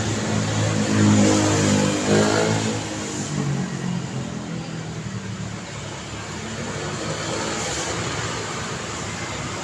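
Street traffic: a motor vehicle's engine passes close and accelerates, loudest about a second in, then fades into steady traffic noise.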